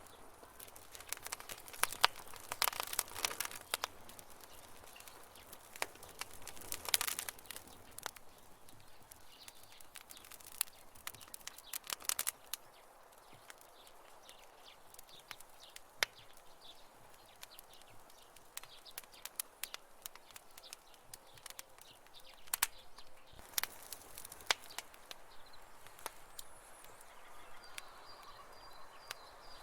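Wood campfire crackling and popping: irregular sharp snaps, sometimes in quick clusters and sometimes singly, over a faint steady hiss.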